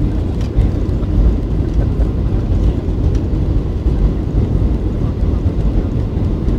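Steady low rumble of a Boeing 737-800 heard from inside the passenger cabin: engine and airflow noise.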